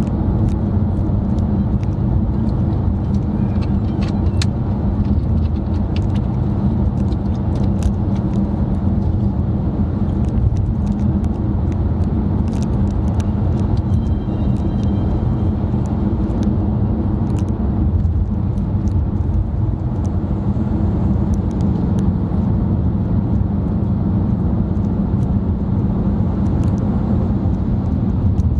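Steady road and engine noise of a car driving, heard from inside the cabin, with faint scattered ticks.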